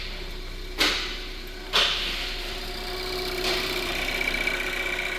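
2020 Hyundai Tucson's 2.0-litre four-cylinder petrol engine idling. From about halfway there is a steady high whine from the engine bay, and there are two sharp knocks in the first two seconds.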